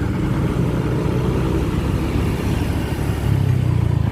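A vehicle engine running with a steady low rumble that grows louder about three seconds in.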